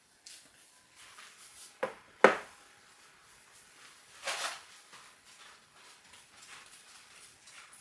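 Household handling sounds: two sharp knocks close together about two seconds in, the second louder, then a short scrape or rustle a little past four seconds.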